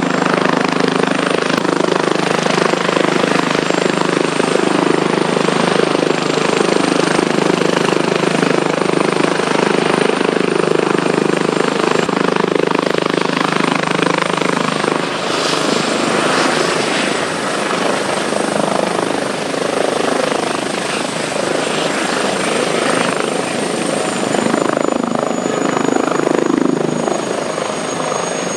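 Airbus Helicopters H145 D2 twin-turboshaft helicopter running, with loud rotor and turbine noise. The low rotor tone fades about halfway through, while a high turbine whine shifts in pitch and the overall sound eases off near the end.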